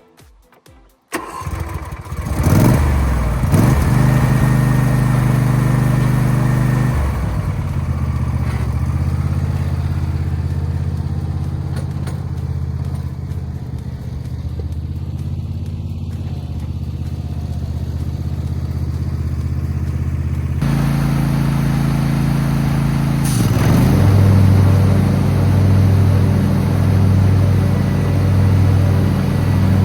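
John Deere S130 lawn tractor engine starting about a second in, then running steadily, with abrupt changes in its note about a third of the way through and again about two-thirds of the way, and a pulsing throb near the end.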